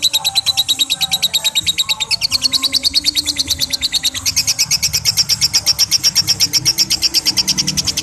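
Lovebird giving its long 'ngekek' chatter: an unbroken, rapid string of sharp, high notes at about ten a second, stepping up in pitch about halfway through.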